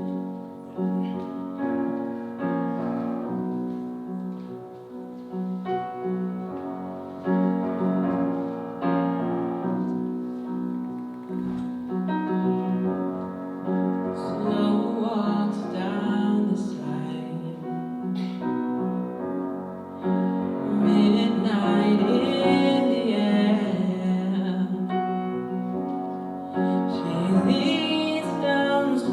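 Piano playing the introduction to a ballad, with a wavering melodic line joining about halfway and the music getting louder later on.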